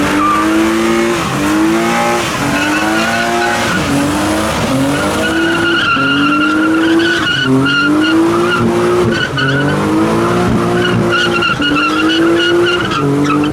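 A car doing a burnout: the engine is revved hard in repeated pulls, about one a second, while the tyres spin and squeal steadily.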